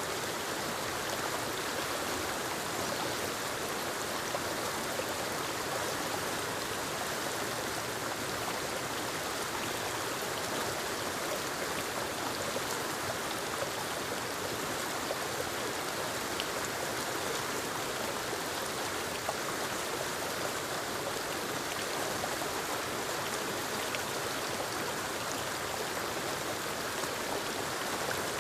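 Steady rushing of a forest waterfall cascading down rocks into a stream, with the stream's gurgle.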